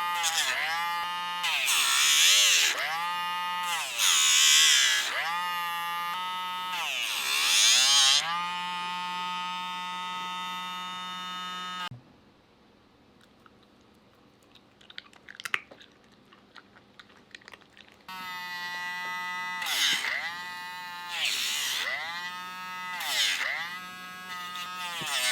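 Electric dog nail grinder running, its pitch sagging briefly and recovering again and again as it bears on the dog's nails. It stops for about six seconds midway, leaving only a few faint clicks, then starts up again.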